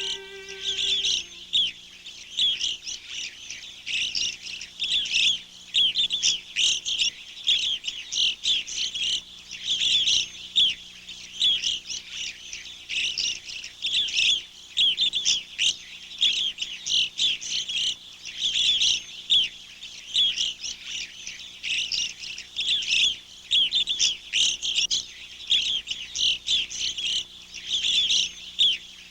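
Small songbirds chirping, many short high calls overlapping continuously in a busy chorus.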